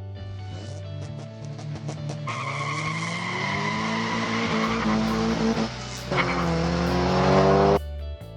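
Race-car engine sound effect revving up and climbing in pitch, dropping once about six seconds in like a gear change, then climbing again and cutting off suddenly near the end, with a tyre-squeal hiss mixed in. Background music plays underneath.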